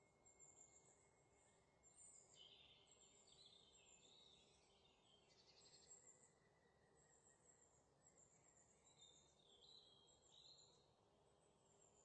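Near silence: a very faint outdoor background with scattered high, thin chirps of birds.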